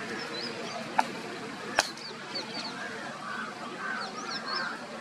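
Birds chirping in many short, high calls, with lower calls mixed in. Two sharp clicks about one and two seconds in are the loudest sounds.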